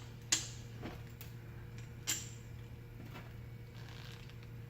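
Two sharp clicks about two seconds apart and a few fainter taps, over a steady low hum: small parts being handled as a motor run capacitor is fitted to a ring fan motor.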